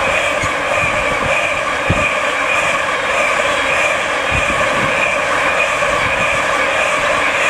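Freight train of empty flat wagons passing at speed close by: a loud continuous rolling roar of wheels on rail with a steady ringing whine over it and irregular low thumps from the wheels.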